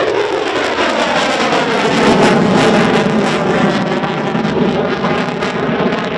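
Aircraft passing close by, its engine note sliding down in pitch over the first couple of seconds and then running steady.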